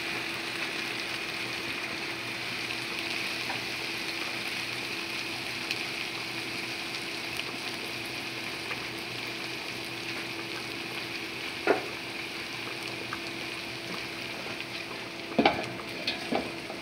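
Brown lentils frying in a large stainless-steel pot, a steady sizzling hiss with a faint steady hum underneath. A metal spoon knocks on the pot once about two-thirds of the way through, and a few clanks come near the end as a metal colander of pasta is tipped into the pot.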